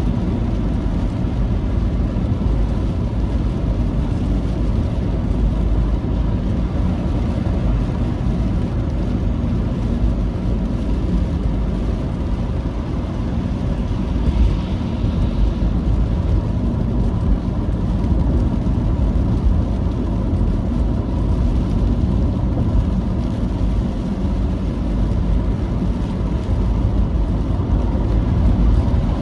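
Steady low rumble of a moving vehicle on the road, engine, tyre and wind noise, with a faint hiss rising briefly about halfway through.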